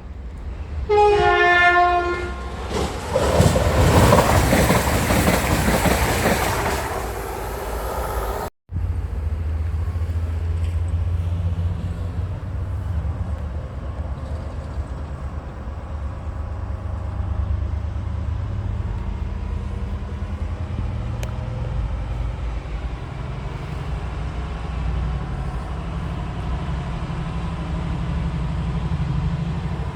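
A train horn sounds two notes, high then low, followed by a train passing close by at speed with a loud rushing noise. After a brief cut, a steady low rumble from a train continues.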